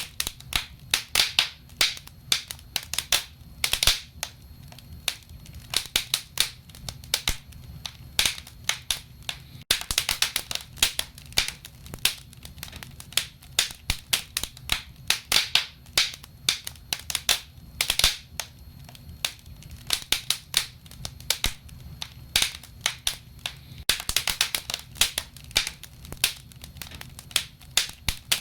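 Wood fire burning in a fireplace, with many irregular sharp crackles and pops over a low steady rumble of the flames.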